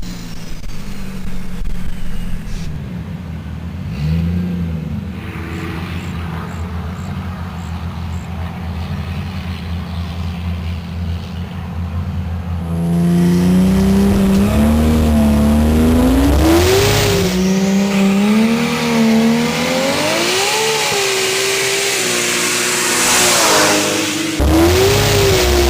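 Single-turbo Lexus SC300 inline-six engine running steadily at low revs, with one short blip about four seconds in. About halfway through it gets louder and pulls hard: the pitch climbs and then drops back, several times over.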